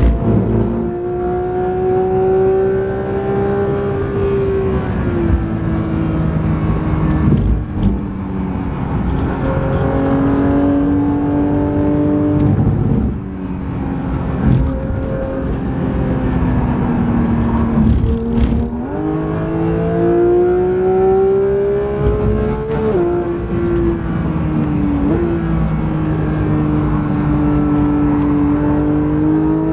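Porsche 992 GT3's 4.0-litre naturally aspirated flat-six, heard from inside the cabin at speed. Its pitch climbs under acceleration and drops sharply at gear changes and under braking, several times over, with a steady rush of tyre and road noise underneath.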